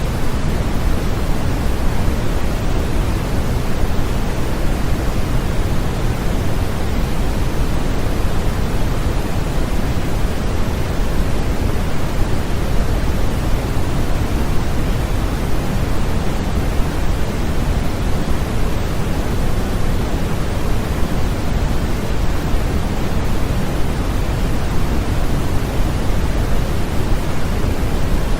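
Steady, unchanging synthetic noise of the baby sleep-aid kind: a loud, even hiss, heavier in the low end than pure white noise, so it sounds like pink noise.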